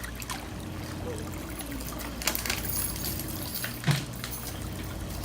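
Water pouring and trickling in a pedicure foot-spa basin, with a couple of sharp knocks, about two and four seconds in.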